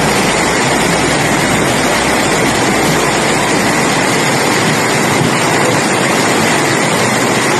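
Rushing water: a loud, steady, dense noise that does not change.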